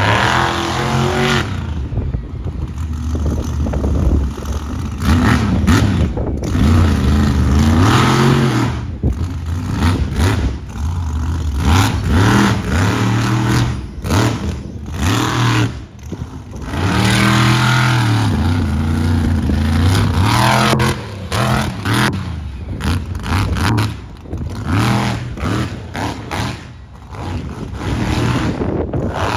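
Monster truck engine revving hard, rising and falling in pitch again and again, with brief cut-outs and some clatter between the surges.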